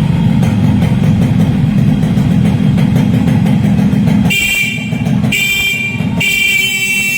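Yamaha RXS 115's two-stroke single-cylinder engine running with a steady buzz. After about four seconds the motorcycle's horn sounds three times, the last blast held longest.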